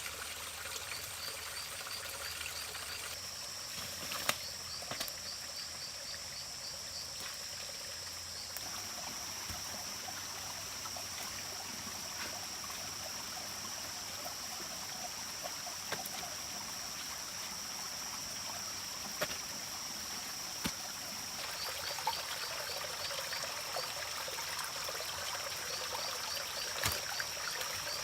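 Rain falling with water trickling, dotted with drip-like clicks. A steady high whine starts about three seconds in, with short runs of rapid chirps now and then.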